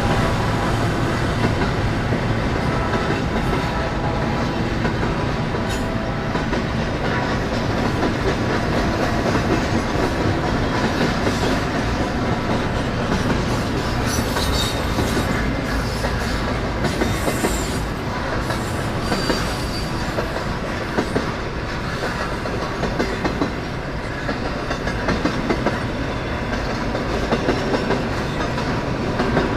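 Freight train cars rolling past on the rails: a continuous rumble with the clickety-clack of wheels over rail joints, and a brief faint high wheel squeal now and then.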